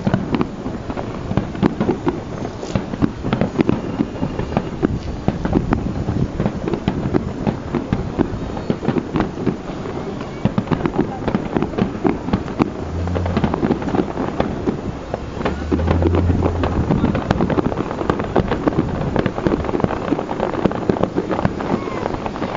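Aerial fireworks going off in quick succession, a dense run of bangs and crackles one after another.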